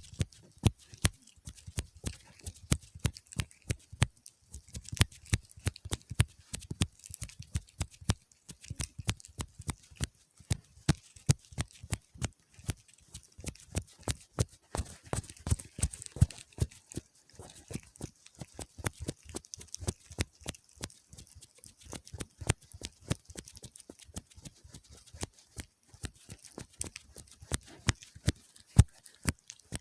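ASMR tapping and clicking on objects: quick, irregular sharp taps, several a second, some noticeably louder than others.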